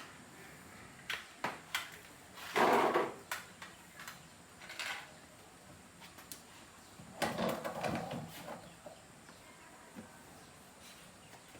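Scattered clicks and knocks of things being handled, with two louder, longer noisy sounds about two and a half and seven seconds in.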